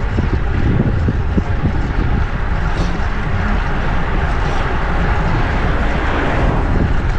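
Wind buffeting the action camera's microphone during a bike ride, with a steady rumble of passing road traffic beneath it.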